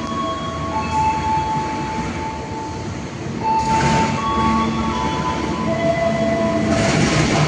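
Train rolling into the station on steel wheels, its wheels and brakes squealing in high tones that hold and then jump in pitch, with a hissing burst about halfway and another near the end.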